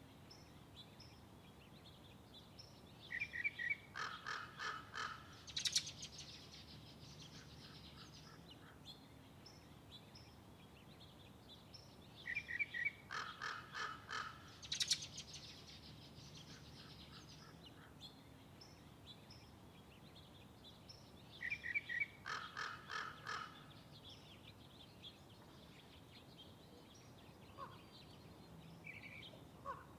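A songbird singing the same phrase three times, about nine seconds apart. Each phrase is a short opening note, then a quick run of repeated notes and a high sharp note at the end. A couple of faint single calls follow near the end.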